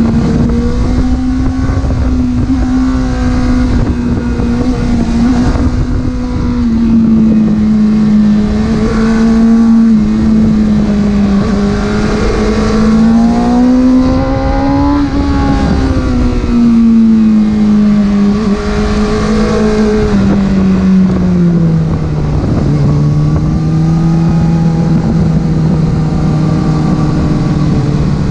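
Porsche engine running while driving, a steady note whose pitch climbs to a peak about halfway through, then falls and settles lower near the end as the revs change.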